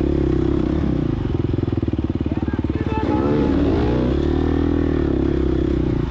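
Gas Gas EX250F dirt bike's 250cc four-stroke single-cylinder engine running hard on the throttle. About three seconds in, the revs dip and climb back up.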